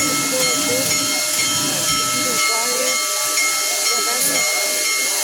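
Union Pacific Big Boy 4014, a 4-8-8-4 articulated steam locomotive, hissing steam steadily, with a few faint steady tones in the hiss.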